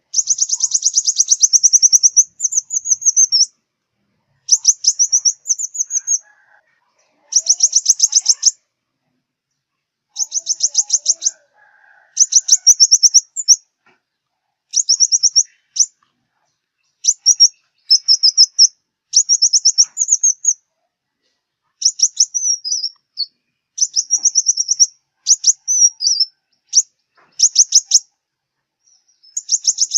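Sunbird song: high, rapid trilled phrases of a second or two each, repeated over and over with short pauses between them.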